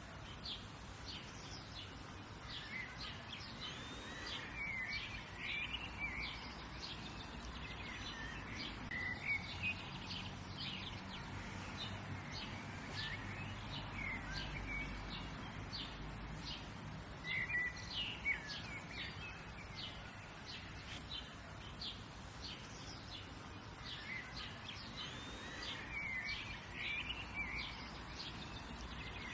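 Several songbirds chirping and singing, many short high chirps and warbling phrases over a steady outdoor hiss, with a faint low rumble in the middle.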